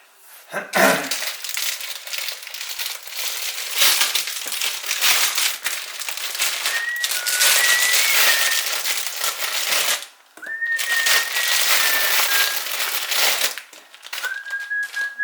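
Loud, irregular crinkling and rustling. In the second half, someone whistles a few held, stepping notes over it.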